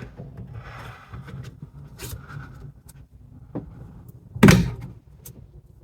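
Hands working the plastic electrical connector on a car's rear wiper motor: faint scraping and a few small clicks, then one louder knock about four and a half seconds in.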